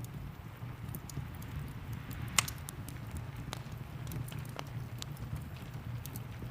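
Fireplace crackling, with scattered sharp pops and one loud pop about two and a half seconds in, over a steady low rumble.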